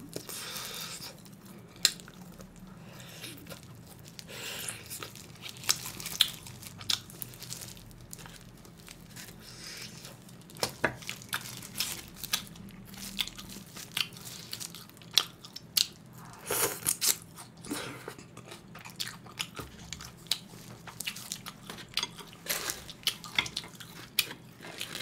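A person chewing and biting grilled pork ribs, with many short sharp clicks and smacks at irregular intervals.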